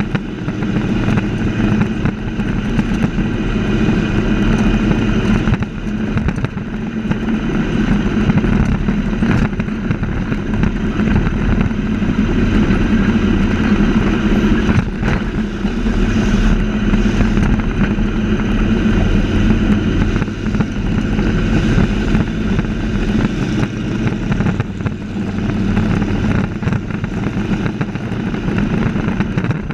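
Race trucks' engines running at speed around an oval track, a loud continuous engine sound with no break.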